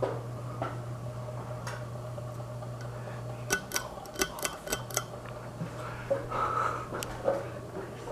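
Vintage Carroway ceiling fan's motor humming steadily. A little over three seconds in comes a quick run of sharp clicks from the fan's speed switch. The hum drops out for about a second and comes back as the fan is switched to high.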